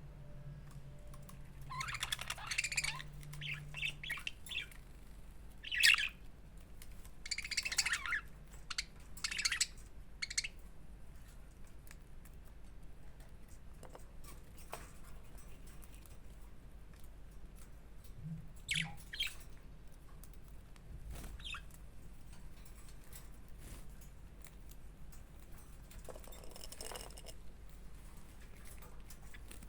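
Budgerigars chirping and chattering in short high bursts. The calls are busy for the first ten seconds, then thin out to a few scattered chirps.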